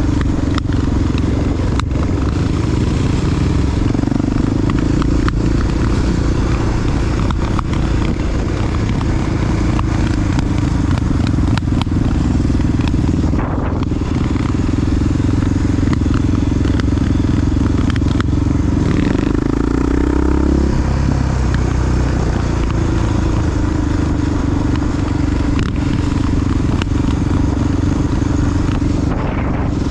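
Big single-cylinder four-stroke engine of a Honda XR dual-sport motorcycle running under way, steady and loud, with clatter over it. The revs dip and come back up about two-thirds of the way through.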